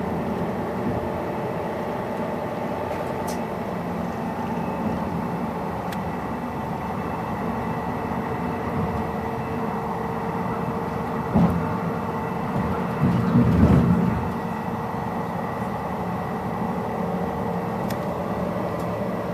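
Inside a ČKD-built Dm12 diesel railbus: a steady drone from the running engine and running gear, with a few held tones. Two short louder low thumps come about eleven and thirteen seconds in.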